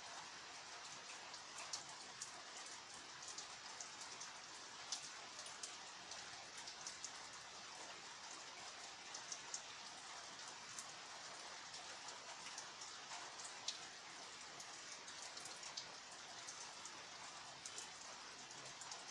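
Steady rain falling, a soft even hiss with many individual drops ticking sharply on nearby surfaces.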